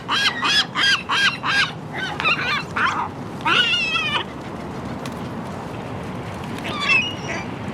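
Gull calling: a quick run of short, arched squawks over the first three seconds, then a longer wavering call about three and a half seconds in, and one more short call near the end.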